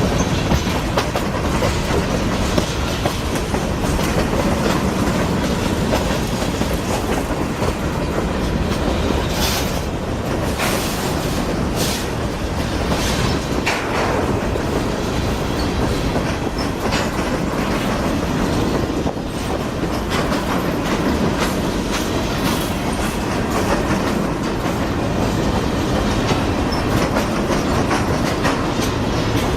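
CSX freight train's cars rolling past, the wheels clicking steadily over the rail joints, with a few sharper high clanks about ten seconds in.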